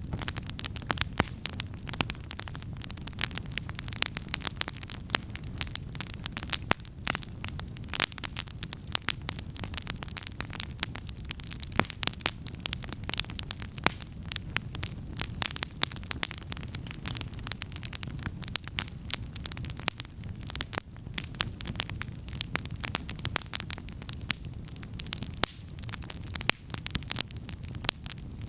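Wood campfire burning, with frequent irregular sharp crackles and pops over a low steady rush.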